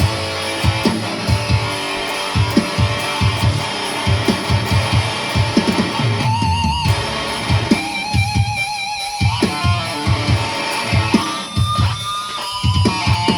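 Schecter Omen Elite 7-string electric guitar being played: quick runs of short, low struck notes, broken up by held higher notes shaken with vibrato about six, eight and twelve seconds in.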